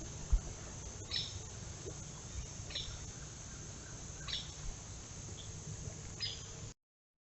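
A bird giving short, high, downward chirps, repeated about every second and a half, over a steady low background rumble. The sound cuts off abruptly near the end.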